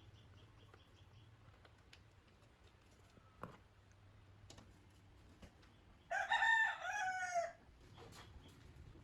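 A rooster crows once, about six seconds in, a single call of about a second and a half that falls in pitch at the end, over faint scattered clicks.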